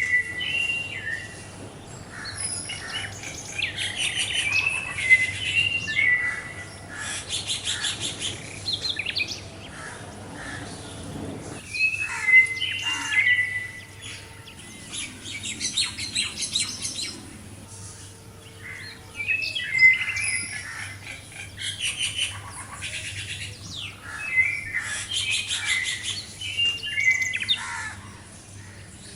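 Songbirds singing: repeated phrases of quick chirps and trills with short whistled notes, coming in bursts every few seconds.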